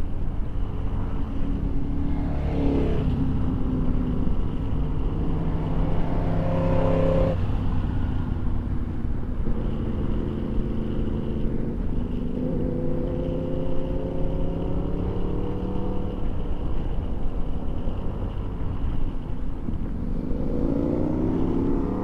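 Motorcycle engine running under way, its pitch rising several times as it accelerates.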